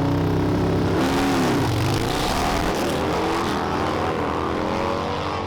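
Car engine revving loudly, its pitch rising and falling several times.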